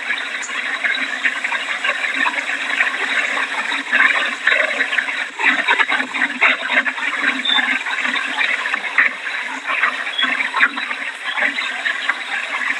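Heavy hurricane rain and wind making a steady rushing noise, with many small crackles of drops in it.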